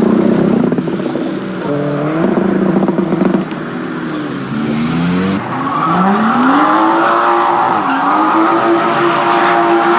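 Modified car engines revving and accelerating as cars pull away: a couple of short rises in pitch, then a longer climb about six seconds in, a brief dip, and a steady high-rpm pull to the end.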